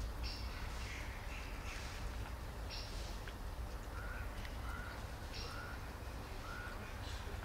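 Repeated harsh bird calls, one every second or two, with a few short higher chirps in the middle and a low steady rumble underneath.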